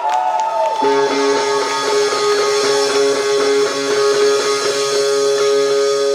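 Rock band's electric guitar opening the set with a chord struck about a second in and left to ring on, sustained and steady.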